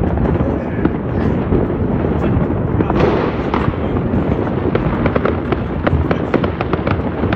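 New Year's Eve fireworks and firecrackers going off all over a city at once: a continuous rumble of distant bangs with sharp cracks and crackling on top, which come thicker from about five seconds in.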